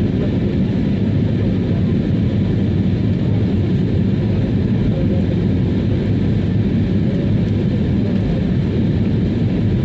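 Airliner's jet engines running steadily at high power during take-off, heard inside the cabin as a loud, even, deep rumble.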